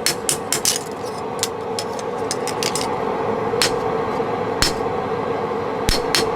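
Hammer tapping on metal: a quick run of light blows in the first second, then slower single strikes, some with a short ring. A steady hum runs underneath.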